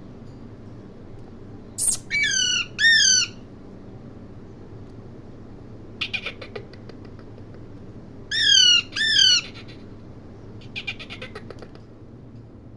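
Parrot squawking: two loud, screechy calls in quick succession about two seconds in and another such pair about eight and a half seconds in, each call ending in a downward slide. Short, fainter bursts of rapid chattering come about six seconds in and again near the end.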